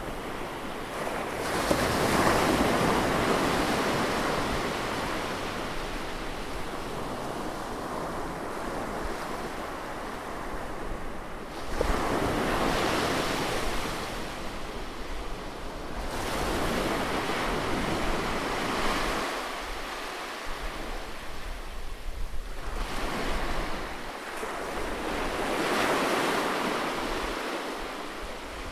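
Close-up recording of sea waves breaking on the shore and washing back, each wave swelling and fading over several seconds, about four surges in all.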